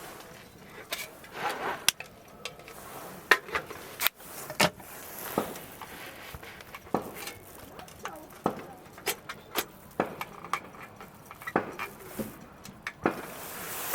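Irregular series of sharp knocks and clinks, objects being handled and set down.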